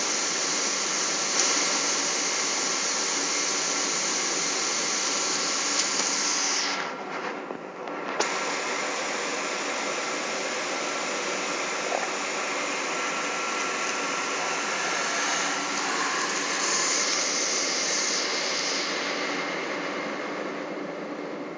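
Steady cabin noise of a Boeing 777 in flight: jet engines and rushing air, with a thin steady whine that stops about two-thirds of the way through. The hiss dips briefly about seven seconds in.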